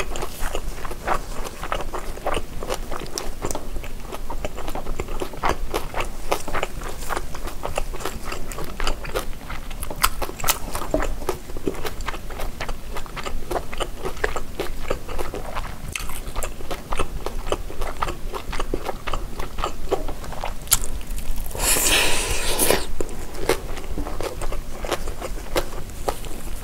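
Close-miked biting and chewing of a tteok-galbi, a grilled minced beef patty, with many small wet clicks and smacks. Near the end comes a louder crackling noise lasting about a second.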